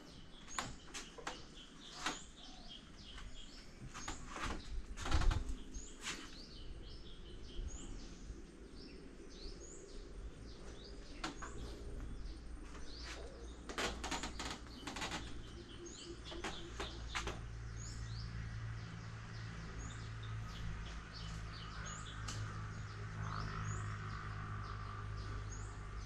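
Small bird chirping, short high calls repeated about once a second, over quiet background. Scattered knocks and footstep-like thumps, the loudest about five seconds in, which the listener takes for someone walking up.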